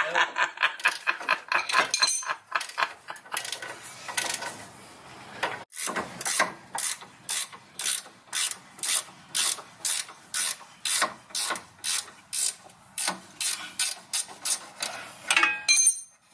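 Hand ratchet wrench clicking as a rusted suspension bolt is backed out. There is a quick run of clicks at first, then steady clicks at about two or three a second, stopping near the end.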